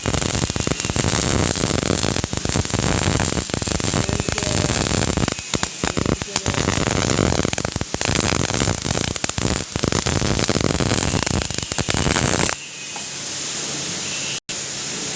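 MIG welding arc crackling and sizzling steadily as the wire feeds, with a few brief breaks where the arc stops and strikes again. Near the end the crackle gives way to a smoother, steadier hiss.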